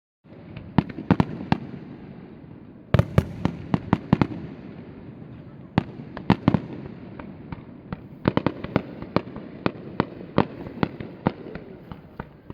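Fireworks bursting overhead: sharp bangs and cracks coming in quick clusters separated by short lulls, over a steady background noise.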